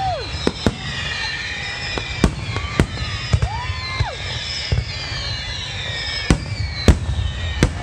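Aerial fireworks in a grand-finale barrage: about a dozen sharp bangs at irregular intervals, over a continuous high whistling and crackling.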